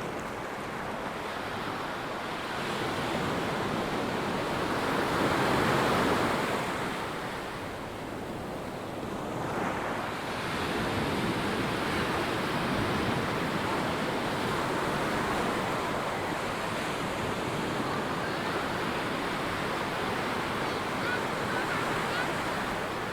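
Ocean surf breaking and washing onto a sandy beach, one wave swelling loudest about six seconds in before the wash eases and builds again, with some wind on the microphone.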